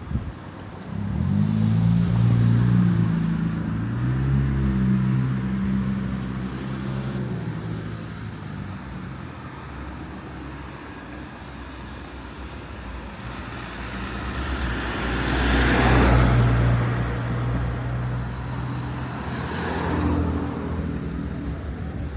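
Street traffic: a motor vehicle's engine runs close by at first, then cars drive past, the loudest passing about two-thirds of the way through and a second one shortly after.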